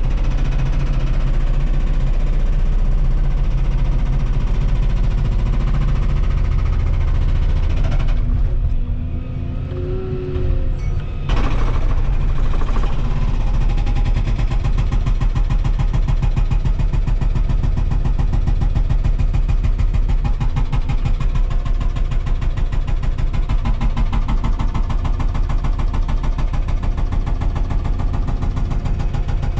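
Volvo 235EL excavator's diesel engine running steadily. It drops briefly about eight seconds in and comes back up about three seconds later.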